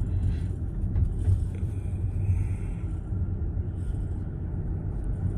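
Tyre and road noise from a moving Tesla, heard inside the cabin as a steady low rumble.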